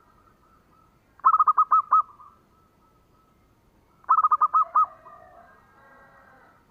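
Zebra dove (perkutut) cooing: two quick phrases of five or six clipped coo notes each, about a second in and again about four seconds in, with fainter, softer chirping after the second phrase.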